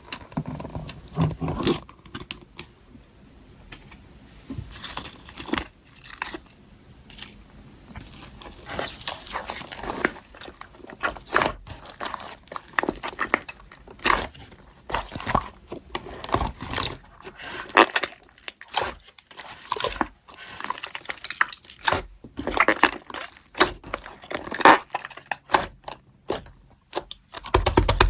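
Slime being pressed, folded and stretched by hand, giving an irregular run of sticky clicks, pops and crackles.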